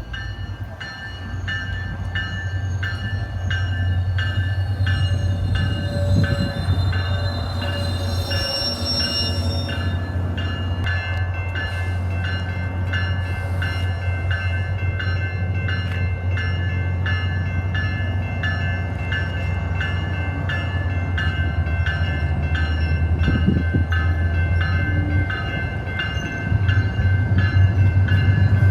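A train running, with a steady low rumble, while a warning bell rings over it in evenly spaced strokes. The strokes come about two a second and continue to the end.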